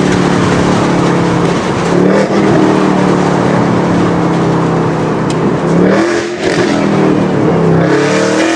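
Ford Mustang GT's 5.0 V8 running loud through Kooks long-tube headers with the exhaust valves open in track mode. The engine note holds fairly steady, with a few dips and rises in pitch, about two, six and eight seconds in, as the revs change.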